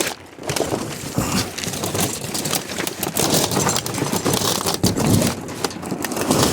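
Continuous rustling, crunching and clattering of piled junk being climbed over and shifted, with many small knocks and crackles.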